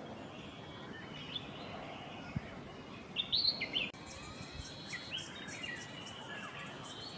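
Wild birds chirping and calling faintly over a soft background hiss, with a cluster of short, high, louder chirps about three seconds in and more calls a couple of seconds later.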